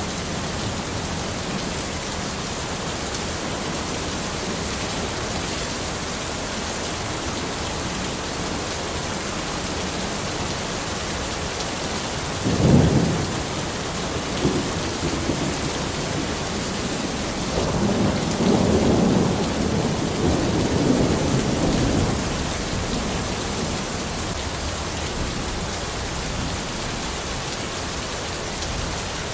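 Steady rain falling in a forest. About 13 s in comes a sharp crack of thunder, and from about 17 to 22 s a longer rolling rumble of thunder.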